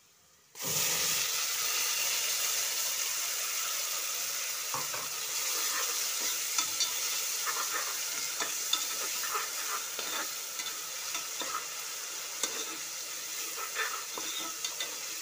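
Wet green chutney paste of coriander, mint, ginger, garlic and green chillies hitting hot oil and browned onions in a pressure cooker: a sudden sizzle about half a second in that carries on as steady frying. A metal ladle stirs through it, with scattered clicks and scrapes against the cooker.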